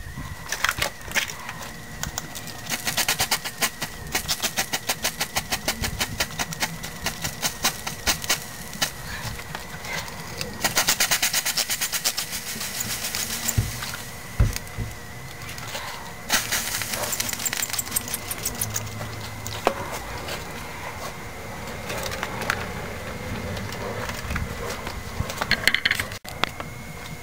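Flux-core wire-feed welder arcing in short runs, a dense crackling with brief pauses between welds.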